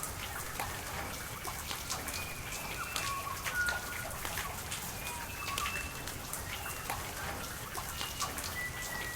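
Steady rain falling and dripping, with many separate drops heard, and short, high whistled bird calls over it.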